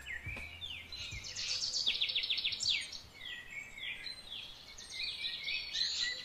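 Small birds chirping, with a fast trill about two seconds in and more short down-sweeping calls later on.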